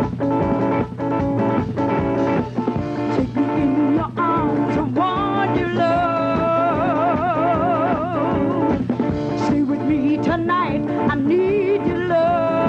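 A band playing: a steady drum beat under held chords, with a voice entering about four seconds in and singing long notes with a wide vibrato.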